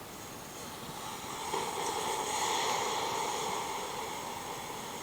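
Hissing rush from the coffee maker as it brews, swelling over the first couple of seconds and then slowly fading.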